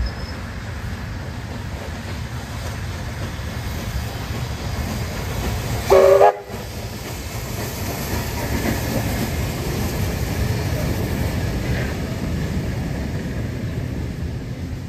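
Train running with a steady low rumble, and a single short, loud toot about six seconds in.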